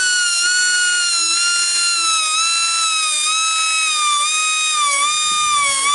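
Handheld high-speed rotary tool with a grinding cutter whining as it sharpens the teeth of a sawmill band blade. The pitch sags slowly and wavers as the bit bears on each tooth.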